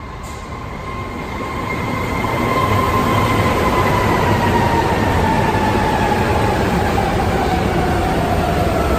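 Subway train running on the track, its rumble growing louder over the first couple of seconds and then holding steady, with a whine that slowly falls in pitch throughout.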